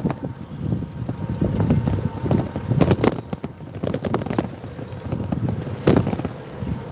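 Riding on a motorbike: wind buffets the microphone in uneven gusts over the low rumble of the ride, with a few sharp knocks about three seconds in and again near the end.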